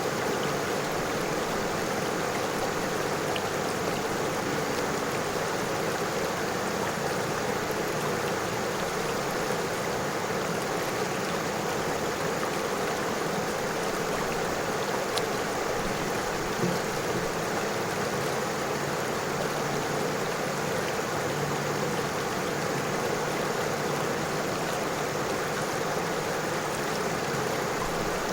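River water flowing over stones, a steady, unbroken rush.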